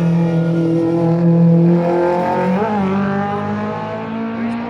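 Rally car engine running hard, holding one steady note for the first half, then breaking briefly and coming back on a slightly higher note that climbs slowly, as with a gear change under load.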